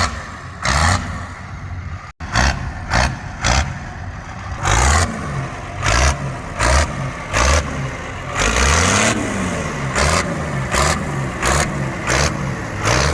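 Customised pulling tractor's engine revved repeatedly in quick short bursts, each rev rising and falling in pitch.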